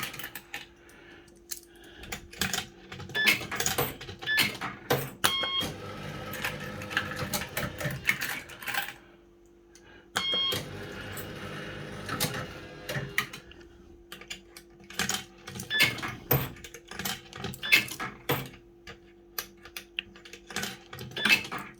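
Firecracker fruit machine being played: many rapid clicks of its mechanics, two short stepped electronic jingles, and two spells of whirring as the reels spin, over a steady electrical hum.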